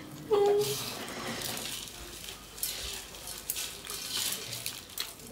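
Close-up chewing and wet mouth sounds of a man eating rice and curry by hand, crackly and irregular, with a brief hum just after the start.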